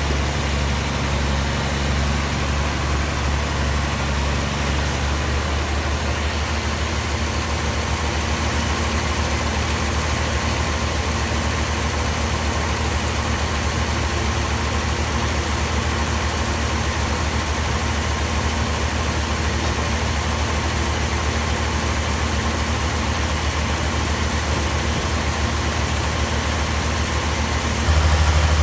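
Sawmill machinery running with a steady engine drone. Its tone shifts slightly about five seconds in, and it gets louder just before the end.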